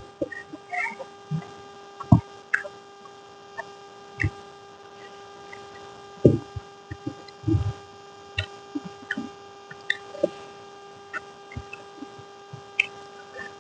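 Someone eating: scattered soft clicks and a few short low thumps of chewing and handling food and dishes, over a steady electrical hum.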